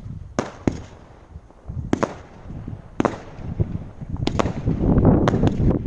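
Category 2 and 3 consumer fireworks going off: separate sharp bangs a second or so apart, then from about four seconds in a dense, continuous barrage builds and grows louder, with more bangs on top of it.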